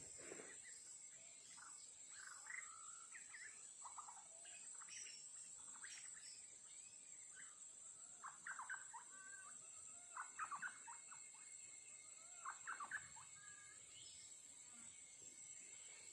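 White-rumped shama (murai batu) singing faintly in short, varied whistled phrases, with three louder bursts of rapid notes in the second half, over a steady high hiss.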